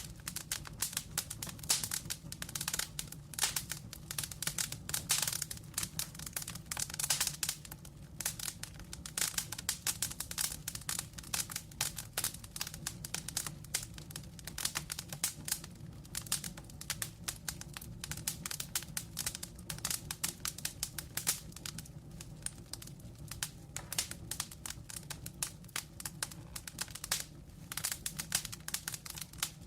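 Wood logs burning in a fireplace, crackling: dense, irregular pops and snaps over a low, steady rustle of flame.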